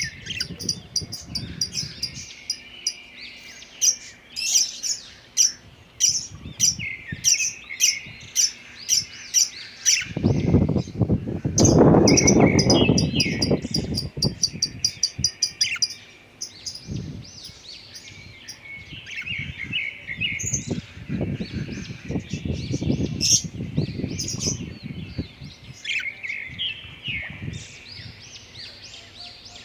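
Budgerigar chattering and warbling, with runs of quick repeated high chirps. A louder low rustling noise comes in about ten seconds in and lasts a few seconds, with weaker low noise again later.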